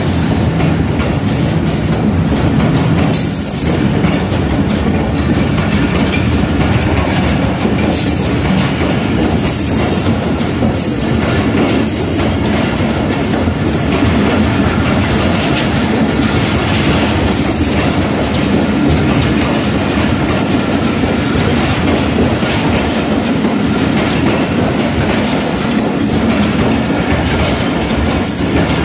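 Passenger train coaches rolling past close by: a loud, steady rumble of wheels on rail, with repeated short clatters and high squeals from the wheels.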